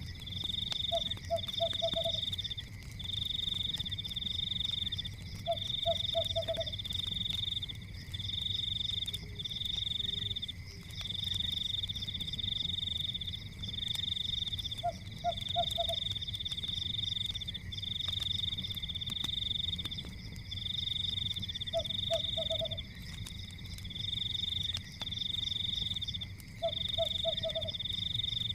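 A night chorus of frogs and insects: a high, pulsing trill repeats in runs of about a second with short gaps over a steady high drone. A lower, short rattling croak comes in about every five seconds.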